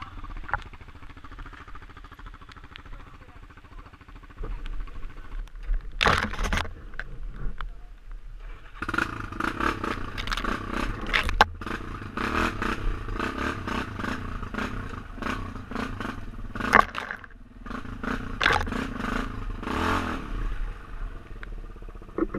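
Motorcycle engine running and revving in repeated surges, with scraping and clattering noises.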